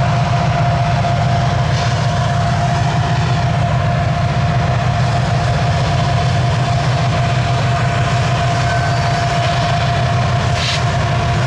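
Freight train rolling past, a steady heavy rumble carrying a steady ringing tone, with a brief hiss near the end.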